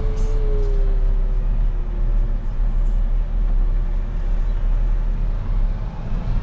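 Volvo rubber-tire wheel loader's diesel engine running steadily under work, a deep rumble with a faint whine that sags slightly in pitch over the first couple of seconds.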